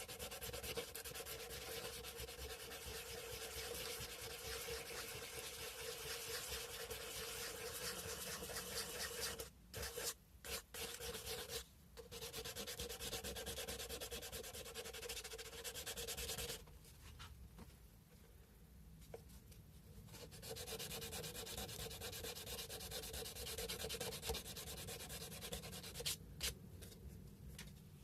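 Sandpaper rubbed by hand over a carved cow-bone fish hook: a steady scratchy sanding sound in long runs. There are a few short breaks about ten seconds in and a quieter stretch in the middle.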